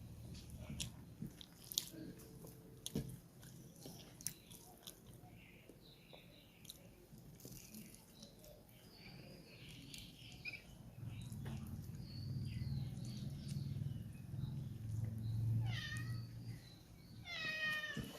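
Wet chewing and clicking eating sounds, with a low rumble building in the second half. Near the end a domestic cat meows twice.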